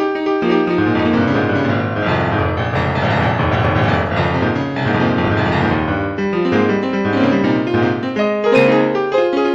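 Piano music: many notes played together, denser and fuller in the middle.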